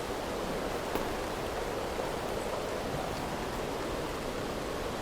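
Rain falling steadily on the motorhome's fabric awning, an even rushing hiss with a few faint ticks.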